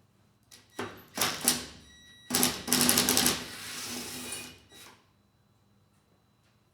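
A few sharp metallic knocks, then a burst of rapid clicking and rattling lasting about two seconds, as a tool works at the fasteners on a lawn mower deck.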